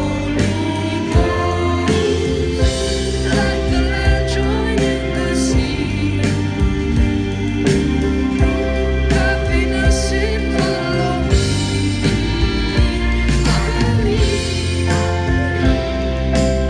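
Live pop music: a band playing sustained chords over a steady beat, with singing.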